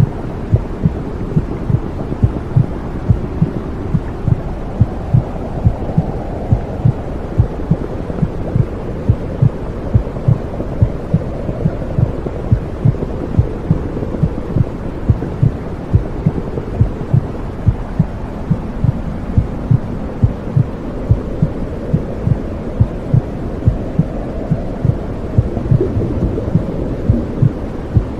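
Womb sound: a muffled, low rushing noise with a steady heartbeat thumping through it, a little faster than one beat a second.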